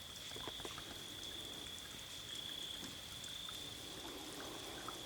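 Flowing water making a steady wash of noise, with a steady high-pitched whine over it and faint scattered ticks.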